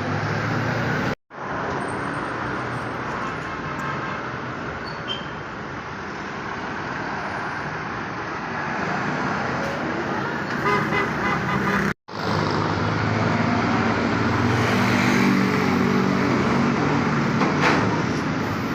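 Truck engines running slowly amid road traffic noise, with a vehicle horn honking briefly a little past the middle. The sound cuts out for an instant twice.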